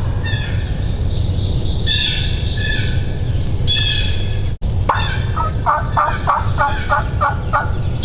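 Wild turkey yelps: a series of about seven even calls at roughly three a second in the second half, after songbirds chirping in the first half, over a steady low rumble.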